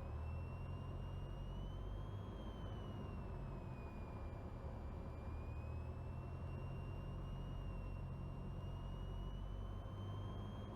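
Cessna 172N's four-cylinder Lycoming engine running at low power, a steady low drone heard from inside the cockpit, with a thin high whine whose pitch slowly rises, falls and rises again.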